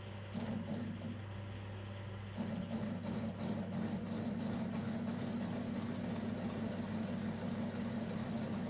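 Metal lathe running with a steady hum. About two and a half seconds in, the tool starts cutting the hardened steel of a differential yoke, adding a rough scraping with a quick, regular ticking from the interrupted cut.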